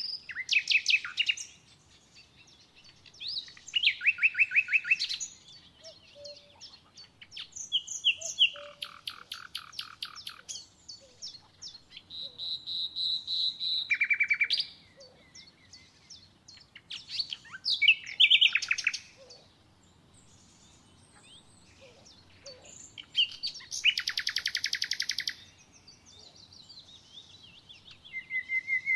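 Songbirds singing: a string of short song phrases, each a fast trill of repeated notes, coming every few seconds, with one held high whistle about halfway through.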